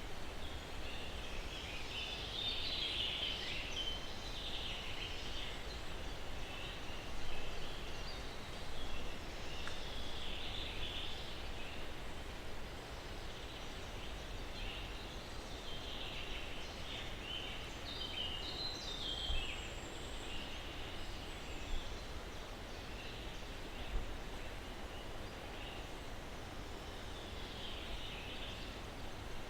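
Steady breeze through pine trees with small birds chirping on and off.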